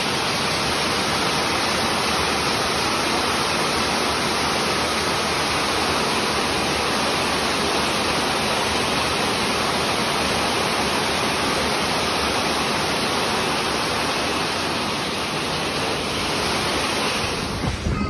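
Heavy rain: a steady, even rushing hiss that stops suddenly near the end.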